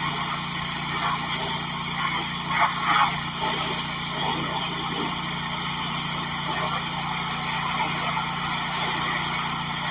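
Gas-engine pressure washer running steadily, with a brief louder burst of spray noise about two and a half seconds in.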